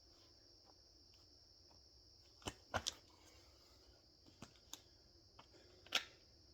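A few sharp knocks and thuds from a home workout of burpees and kettlebell rows: two close together about halfway through and the loudest just before the end, over a steady faint high-pitched hiss.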